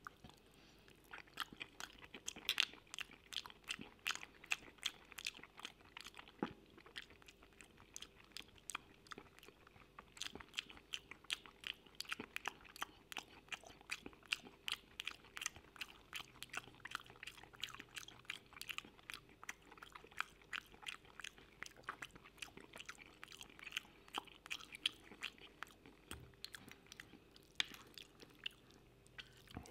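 Close-miked chewing of creamy mushroom pasta: a steady run of short mouth clicks and smacks, a few every second.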